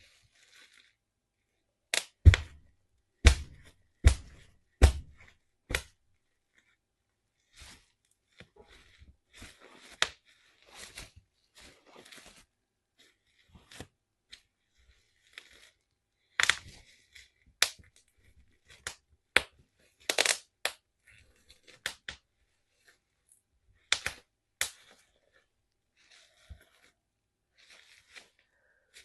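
Bubble wrap popping under slowly stepping bare feet: single sharp pops, a run of five loud ones about two to six seconds in, with quieter crinkling and small crackles between the louder pops.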